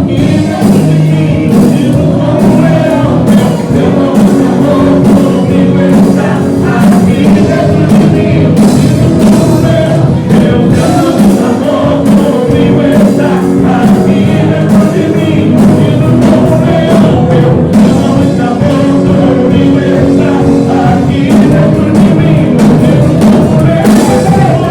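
Loud church praise-and-worship music with singing over sustained chords and a steady beat of drum hits.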